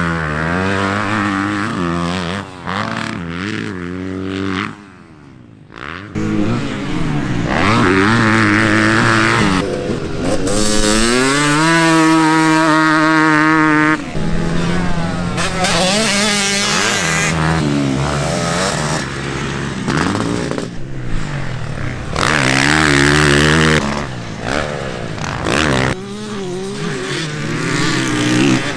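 Vintage motocross bike engines revving and pulling hard, the pitch rising and falling as the throttle opens and closes. About eleven seconds in, one engine climbs steadily in pitch for about three seconds as it accelerates. There is a brief drop in loudness about five seconds in.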